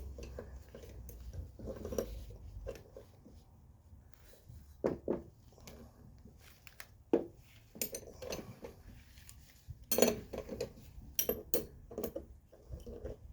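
Steel wrenches clinking and clicking against a suspension strut's top nut as the nut is slowly turned down, the shaft flats held with an adjustable wrench: scattered sharp metallic clicks, a few louder knocks among them.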